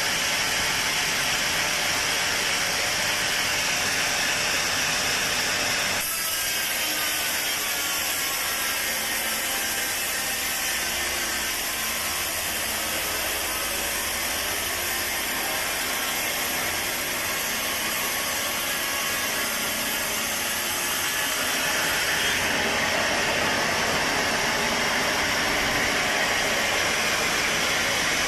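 Sawmill saw running through a teak log: a steady, loud cutting noise. It changes character abruptly about six seconds in and shifts again near the end.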